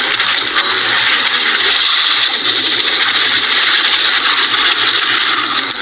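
Steady, loud din of a large wildebeest herd at a river crossing, many animals grunting at once over a hissing wash of noise.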